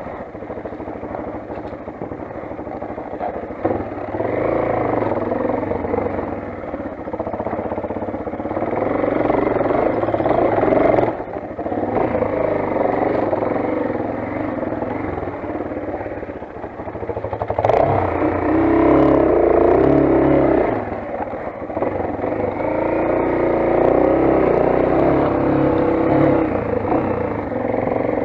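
Motoland XR 250 dirt bike engine running under load while riding, the throttle opened and eased off repeatedly so the engine note swells and falls, with brief dips about eleven and twenty-one seconds in.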